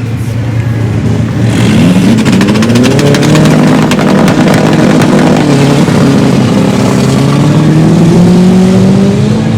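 A race car's engine revving hard at full throttle: its pitch climbs, holds with a rapid crackle, drops about halfway through as if shifting gear, then climbs steadily again.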